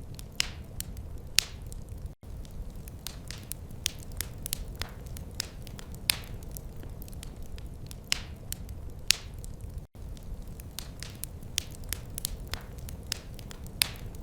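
Wood fire crackling in a fireplace: irregular sharp snaps and pops, a few much louder than the rest, over a low steady rumble of burning. The sound drops out for an instant twice, about two seconds in and near ten seconds.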